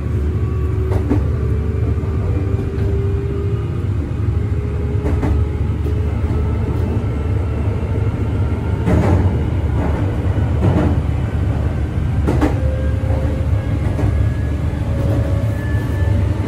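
Meitetsu electric commuter train running, heard from inside the carriage: a steady low rumble with a faint motor whine that shifts in pitch and rises near the end. The wheels click over rail joints several times.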